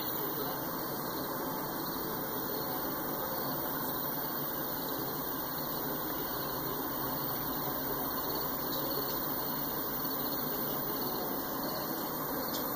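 Freight train's covered hopper cars rolling past on steel wheels and rail: a steady, even rolling noise.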